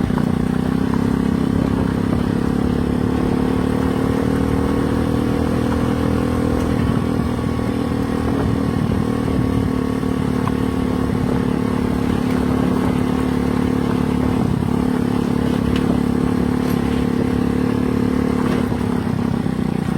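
Vehicle engine running steadily at a constant speed, with rumbling road and wind noise. The engine note eases slightly a few seconds in and breaks up near the end.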